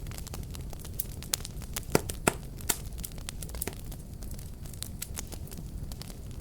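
Wood fire crackling: a steady low rumble of burning with irregular sharp pops and snaps, a few louder pops about two seconds in.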